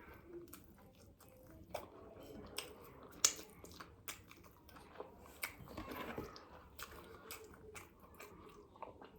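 Close-up eating sounds: chewing with irregular small clicks and smacks of the mouth, the sharpest about three seconds in.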